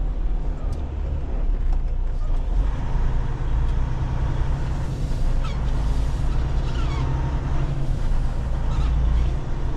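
Semi truck heard from inside the cab while driving slowly: a steady low engine and road rumble.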